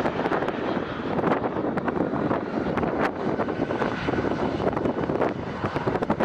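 Airplane engine noise, loud and rough, with a faint steady whine in the middle.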